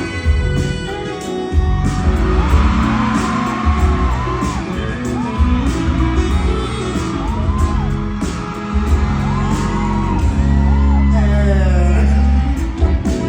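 Live band playing an instrumental break of a pop song: heavy bass and drum beat with a lead melody of short rising-and-falling notes, and a crowd whooping and yelling.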